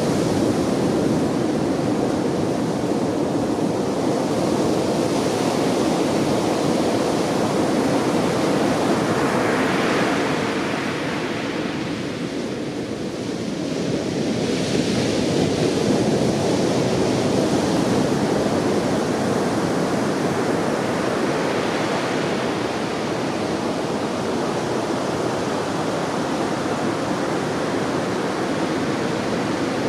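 Heavy typhoon swell breaking on a sandy surf beach: a continuous rush of surf that eases about eleven seconds in and builds again a few seconds later as the next waves break.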